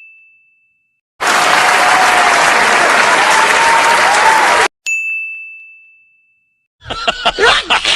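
A bright bell-like ding sound effect fades out. Then comes about three and a half seconds of loud crowd applause that cuts off abruptly, and a second identical ding rings out and fades. Near the end a voice starts, laughing.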